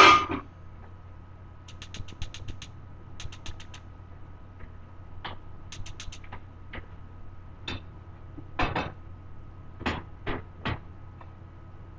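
A gas stove's igniter clicking in quick runs of several clicks as the burner is tried again and again without catching, the burner having failed to light or gone out. A loud clatter opens the sequence, and a few knocks of a pot being handled come near the end, over a steady low hum.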